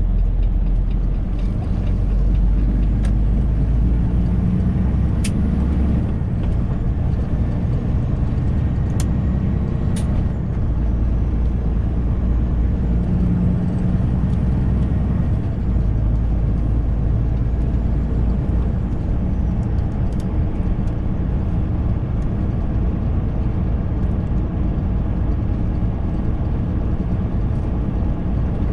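Semi truck's diesel engine and road noise heard inside the cab while driving: a steady low rumble, with a few sharp clicks about five and ten seconds in.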